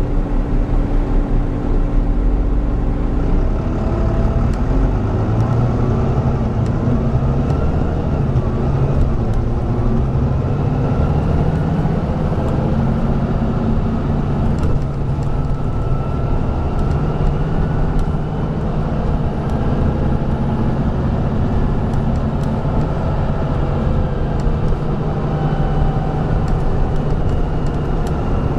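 Volvo B9TL double-decker bus's Volvo B9B diesel engine running steadily, its note rising a few seconds in as it pulls harder, then holding, with a faint whine from the drivetrain slowly rising and easing in pitch.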